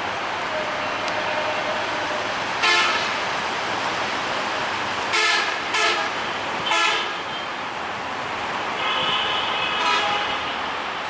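Horn sounding four short toots and then one longer blast of about a second near the end, over a steady rushing running noise.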